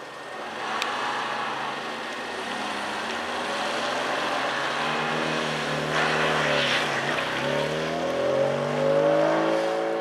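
Classic Mini's four-cylinder A-series engine revving hard as the car is driven and manoeuvred on a wet surface. Its note climbs, drops sharply and climbs again about seven seconds in.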